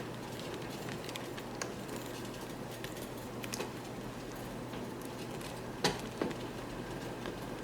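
Pot of red peas soup simmering: a steady bubbling hiss with scattered small pops, and a couple of sharper clicks about six seconds in.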